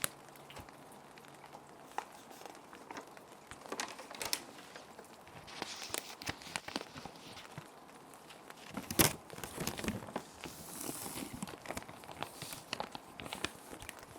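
Plastic sheet protectors crinkling and rustling as paper sheets are slid into them: irregular crackles and clicks, a few longer rustling slides, and one sharp snap about nine seconds in.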